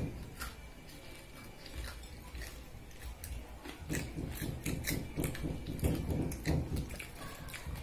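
Chewing and crunching a fried piyaju (lentil and onion fritter) with the mouth close to the microphone: many small irregular crunchy clicks, busiest from about four seconds in.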